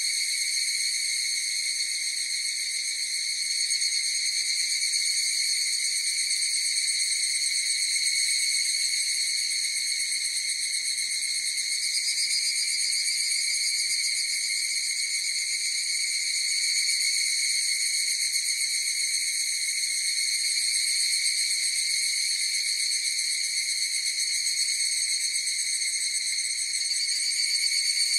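Chorus of higurashi (evening cicadas, Tanna japonensis) calling continuously: a steady, high ringing drone that swells and eases slightly in loudness.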